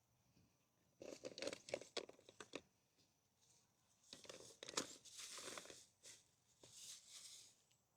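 Crinkling, tearing handling noise in three bursts, like paper or plastic being crumpled or torn.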